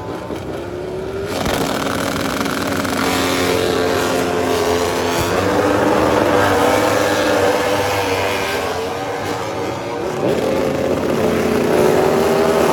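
MotoGP racing motorcycles' four-cylinder engines at high revs on track, their pitch climbing and dropping as the riders shift gears and brake and accelerate.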